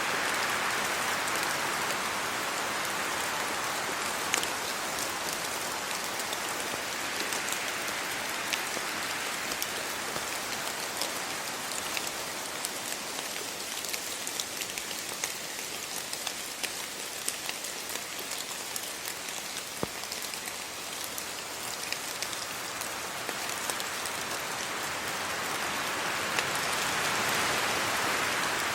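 Steady rain falling on trees and leaves, an even hiss dotted with many sharp drop ticks. The hiss swells louder at the beginning and again near the end.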